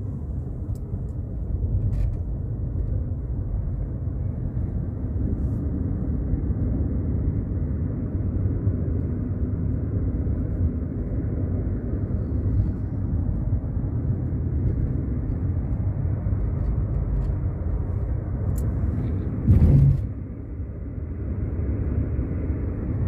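Car interior road noise: a steady low rumble of engine and tyres while driving on a highway. About three-quarters of the way through comes one brief loud thump, after which the rumble drops for a moment.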